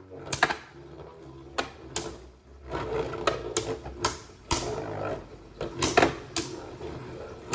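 Spinning Beyblade Burst tops, one of them Venom Devolos, whirring and clashing in a battle stadium. About a dozen irregular sharp clacks, the loudest about four and a half and six seconds in, sound over a low steady whir.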